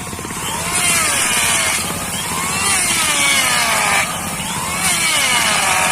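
Sawing in slow, even strokes, one every one and a half to two seconds, each stroke with a rasping hiss and a falling squeal.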